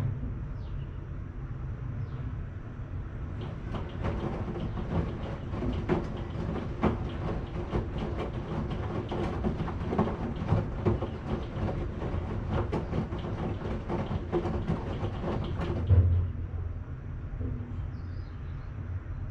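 Washing machine running, its drum tumbling with a steady low rumble and many irregular clicks and knocks. A heavier thud comes about 16 seconds in, and the clicking thins out after it.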